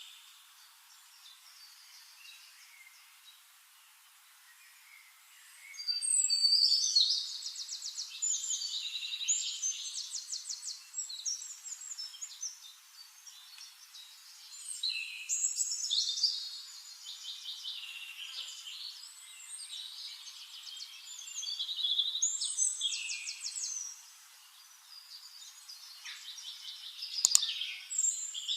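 A songbird singing long, varied phrases of rapid trills and chirps in bouts a few seconds long with short pauses between. The song starts about six seconds in, and a sharp click comes near the end.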